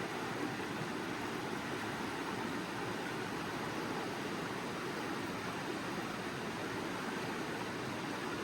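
Steady rushing of a mountain creek's flowing water, an even, unbroken noise with no separate events.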